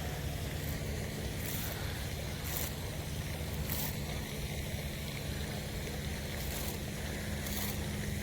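A steady low mechanical hum, with a few brief high hissing sounds scattered through it.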